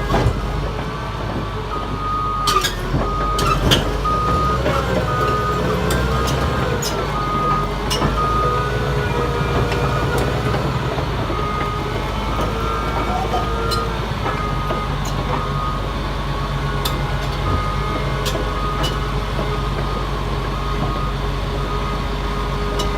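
Caterpillar D6T XL crawler dozer running, its diesel engine droning steadily while its backup alarm beeps over and over as it reverses. A few sharp metallic clanks come about three seconds in.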